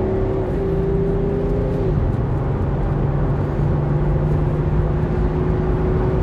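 BMW X5's three-litre six-cylinder diesel heard from inside the cabin, pulling under load over steady road and tyre noise. Its note drops as the automatic gearbox shifts up about two seconds in, then holds steady.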